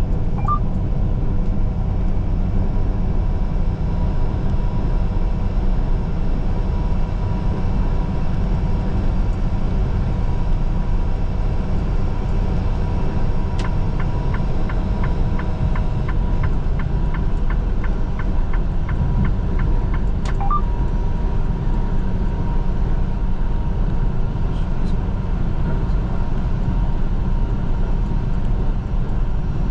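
Steady low drone of a semi-truck driving at highway speed. For about six seconds past the middle, a regular ticking at about three a second runs under it.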